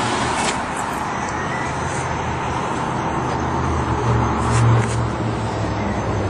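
Steady low vehicle rumble under an even background hiss, with a few short faint clicks.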